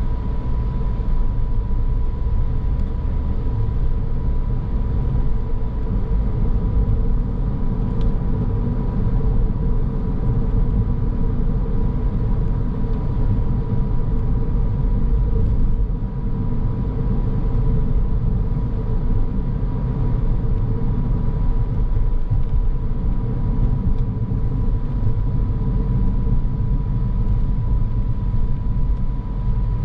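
Car driving steadily: continuous low road and tyre rumble with engine hum and a faint steady high whine.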